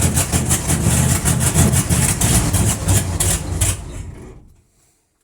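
Chevrolet C10 pickup's carbureted engine cold-cranking and catching roughly with a regular pulsing, then dying away about four seconds in: a brief sign of life, but it does not keep running. Heard from inside the cab.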